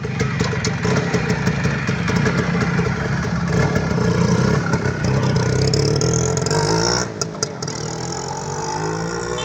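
TVS Max 100 motorcycle's small two-stroke engine running hard and revving, its pitch climbing, then easing off about seven seconds in and running on more quietly.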